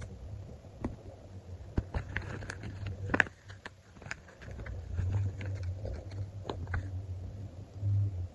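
Hands handling and pressing sticker sheets: scattered crackles and sharp clicks of paper, busiest a few seconds in, over a low uneven thumping of handling. The handling stops suddenly at the very end.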